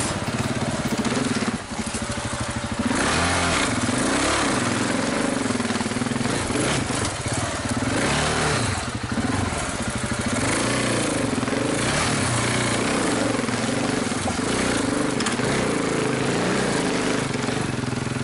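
Adventure motorcycle engine running loud, its revs rising and falling again and again as the throttle is worked on a rough dirt trail.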